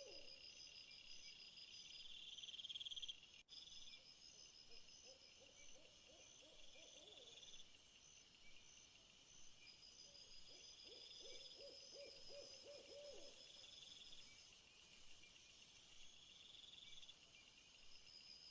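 Faint night chorus of crickets and other insects: several overlapping high trills and pulsed chirps that keep going throughout, swelling louder and higher in the second half. A lower, rapidly trilled animal call comes twice, about five seconds in and again about ten seconds in.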